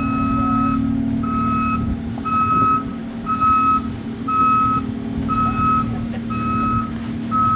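Vehicle's reversing alarm beeping about once a second, over the steady hum of a running engine.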